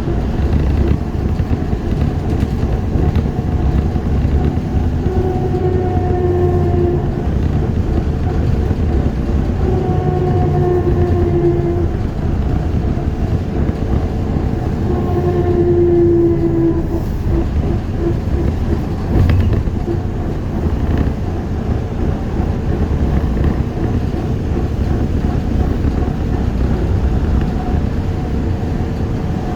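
ZiU-682G trolleybus running along, with a steady rolling rumble. The electric traction motor's whine comes up three times, about 5, 10 and 15 seconds in.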